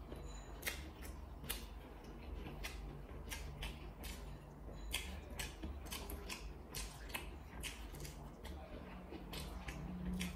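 A person chewing a mouthful of stir-fried instant noodles, the mouth giving soft, irregular wet clicks and smacks, over a faint low hum.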